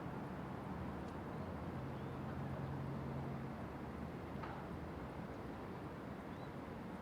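City ambience: a steady low rumble of traffic, with a vehicle engine hum swelling for a second or two in the first half. A few faint, short high chirps sound over it, one falling in pitch about halfway through.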